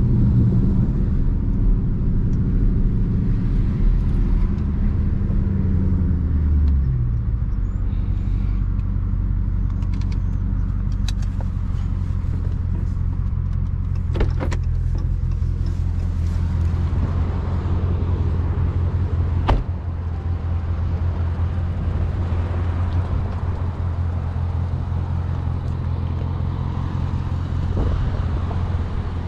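Dodge Charger Daytona 392's 6.4-litre HEMI V8 running in a steady, deep drone while cruising. It is fuller for the first six or seven seconds, then eases to a lighter drone, with a couple of sharp clicks midway.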